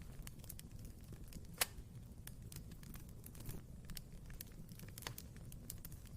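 Wood fire burning in a fireplace: a low, steady rumble of the flames with irregular crackles and pops from the burning logs, one sharp, loud snap about one and a half seconds in.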